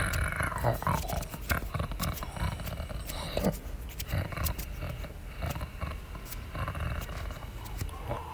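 Large predators roaring and growling in a tiger-and-bear fight, with many short sharp knocks and a constant low rumble underneath.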